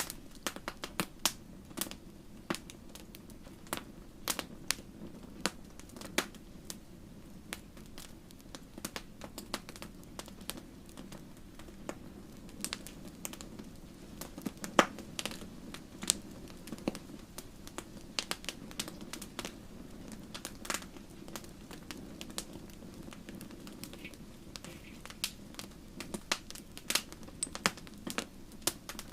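Wood fire burning in a fireplace: a steady low rush of flame with frequent irregular sharp crackles and pops, one louder pop about halfway through.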